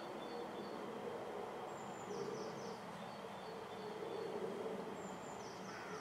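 Small birds chirping: a steady run of short high chirps, about three a second, with a quick twittering phrase twice, over steady outdoor background noise.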